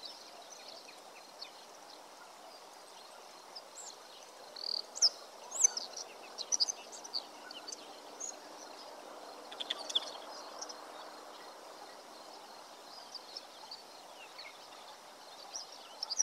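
Small birds chirping in quick, scattered calls over a steady outdoor background hiss, with a busier cluster of calls a few seconds in and another about ten seconds in.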